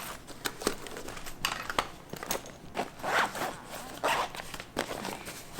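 A run of sharp clicks and short rasping rustles, the loudest rasps about three and four seconds in: the sound of things being handled.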